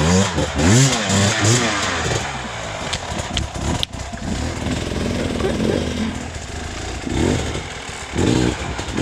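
Off-road motorcycle engine revving hard and unevenly on a trail climb, its pitch rising and falling in quick surges under throttle. There are a few sharp knocks about three to four seconds in.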